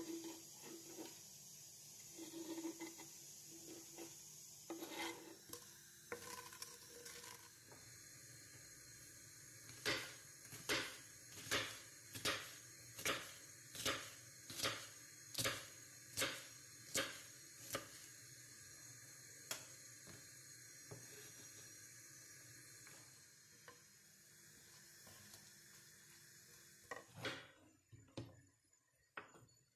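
Kitchen work with dishes and utensils knocking and clattering, over a steady low hiss. In the middle comes a run of about a dozen sharp, evenly spaced knocks.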